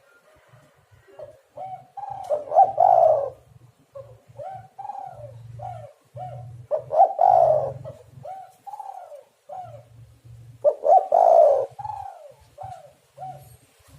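Spotted doves cooing in repeated phrases: short arched coos, each phrase peaking in a louder, burry coo about every four seconds.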